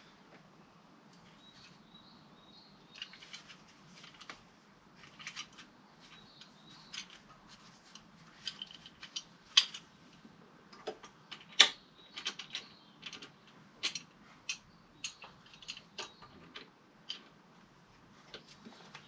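Irregular clicks and light taps of a hand tool working plastic electrical connector clips loose, with a few sharper clicks about halfway through.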